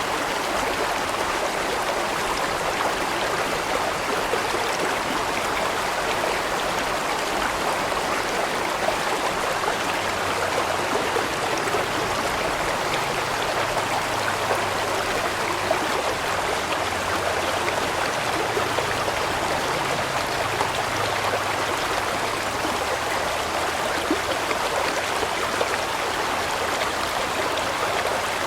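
Large mountain stream flowing steadily, water rushing and splashing over rocks.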